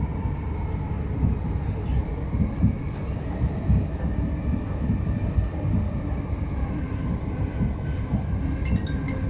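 c2c electric passenger train running along the track, heard from the carriage: a steady low rumble of wheels and running gear with a faint whine above it, and a few light clicks near the end.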